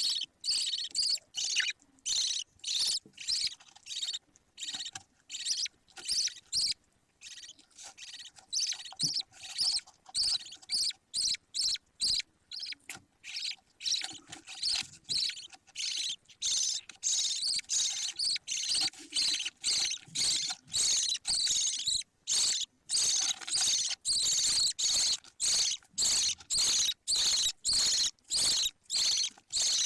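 Budgerigar chick calling: a rapid, unbroken string of short, high, raspy chirps, about two or three a second.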